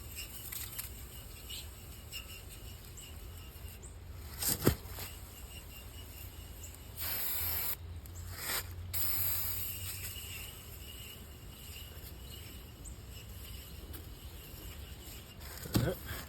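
Aerosol can of foaming coil cleaner hissing as it sprays an AC condenser's coils, in a couple of bursts about halfway through. A sharp knock comes a little before the spraying.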